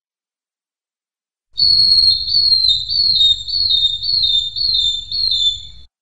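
Long-tailed broadbill calling: a series of about seven high, clear whistled notes, each dropping slightly in pitch, about two a second, starting about a second and a half in.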